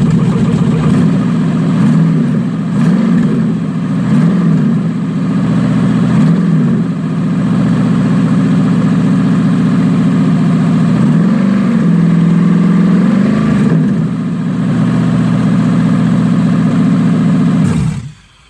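Swapped-in V8 engine in a Chevy Astro van running on a test start, blipped up and back down several times, then shut off abruptly near the end. It is running on a newly fitted electric fuel pump (a Silverado pump adapted to the Astro sending unit) rather than on starter fluid.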